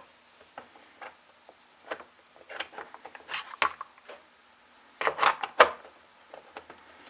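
Scattered clicks, knocks and clatters of chainsaw parts being handled and fitted back together by hand, with two louder clusters about three and a half and five seconds in.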